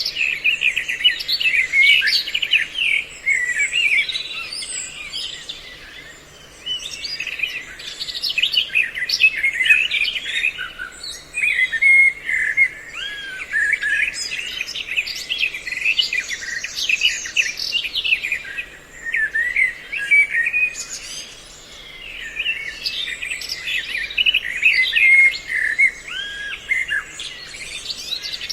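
Songbirds chirping and calling in quick, overlapping phrases, a mixed bird-lure recording of several species, with short lulls between bursts.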